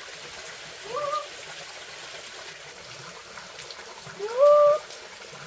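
Steady trickle of running water, with a call twice, about three seconds apart, each rising in pitch and then held briefly.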